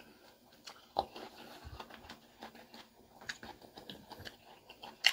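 Chewing crispy fried pig tail: scattered small crunches and mouth clicks, with a sharp crunch about a second in and a louder one near the end.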